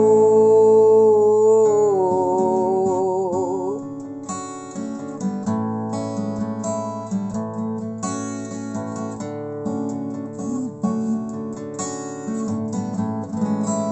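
Acoustic guitar accompanying a song. A sung note is held over the guitar and wavers with vibrato before ending about four seconds in, and the guitar then plays on alone as an instrumental passage between verses.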